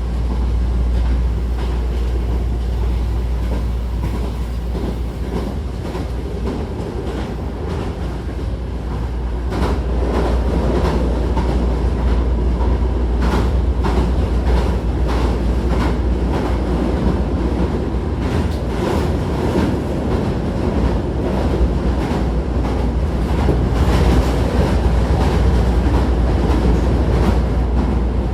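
Hankyu 1000-series electric commuter train running at speed, heard from inside the car: a steady low rumble with the wheels clacking over rail joints, the clacks more frequent and a little louder from about ten seconds in.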